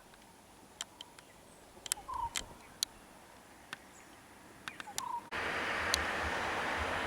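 Outdoor ambience: scattered sharp clicks and two short bird chirps, then about five seconds in an abrupt change to a louder, steady rushing noise.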